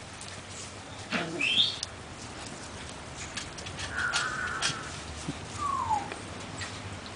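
Poodle puppies giving a few short squeaky yips and whines: a rising one about a second in, another about four seconds in, and a falling one near six seconds, over the steady hiss of falling rain.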